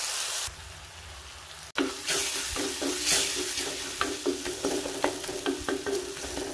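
Chopped onion and tomato sizzling in oil in a clay pot, stirred and scraped with a wooden spatula. A steady frying hiss runs throughout, and from about two seconds in it carries a quick run of scraping strokes.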